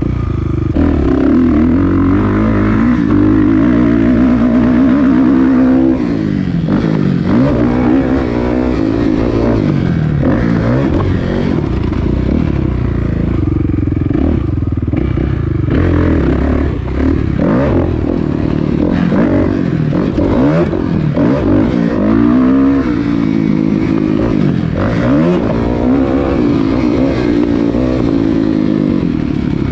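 Kawasaki KX450F single-cylinder four-stroke motocross bike engine being ridden hard, the revs rising and falling again and again as the throttle is worked.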